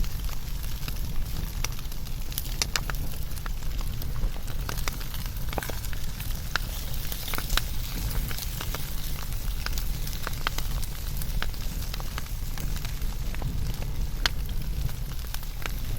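Wood fire burning and crackling, with frequent irregular sharp pops and snaps over a steady low rumble.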